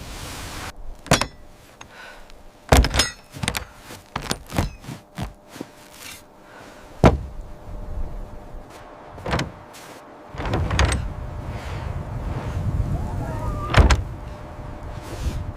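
A series of irregular knocks and clunks, like something being handled or a door being worked, with a low rumble for a few seconds near the end and a short squeak just before a loud thump.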